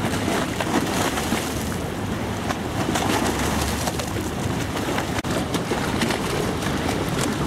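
Birds calling over a steady wash of outdoor noise, with a momentary dropout about five seconds in.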